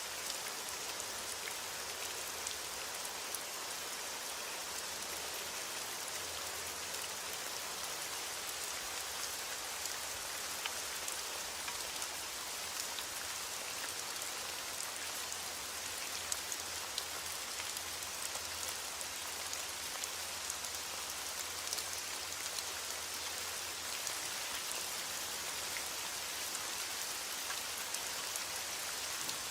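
Steady rain falling, an even hiss dotted with many small ticks of individual drops striking a surface; no thunder in this stretch.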